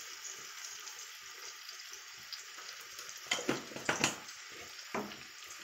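Spice masala sizzling in hot mustard oil in a frying pan, with ground spices just stirred in: a steady, quiet frying hiss. A few short knocks or scrapes come about three to four seconds in and once more near five seconds.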